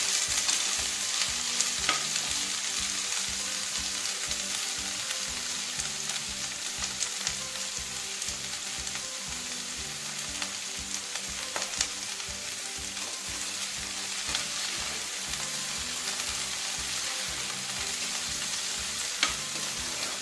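Onions, green chilies, spring onions and peas sizzling steadily in hot ghee in a kadai, with a few sharp clicks and scrapes of a steel spatula against the pan as they are stirred.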